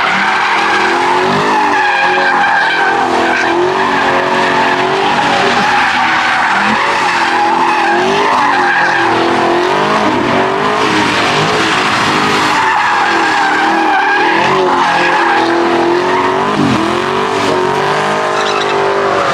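Chevrolet Camaro doing a burnout: the engine runs at high revs, its pitch wavering up and down, while the tyres squeal without a break.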